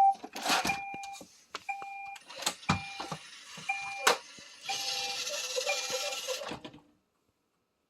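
Roomba 531 robot vacuum beeping, a short single-pitch beep about once a second, with clicks and knocks of handling in between. Near the end a brief whirring starts, then everything cuts off.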